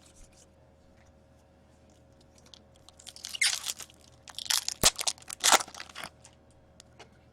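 Crinkling and tearing of a trading-card pack wrapper as a pack is opened, in a few crackly spells about three seconds in, with one sharp click midway.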